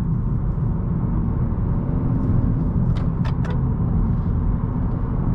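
2018 Honda Accord 1.5T under way on a winding road: a steady low rumble of road and wind noise, with three or four sharp ticks about three seconds in.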